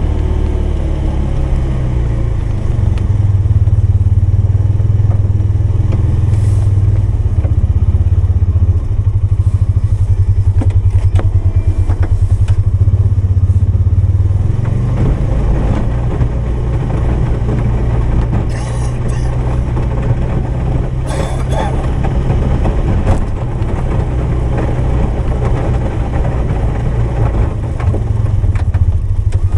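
Polaris 570's engine running under load while plowing snow, its speed and loudness rising and falling with the throttle, with occasional knocks and rattles.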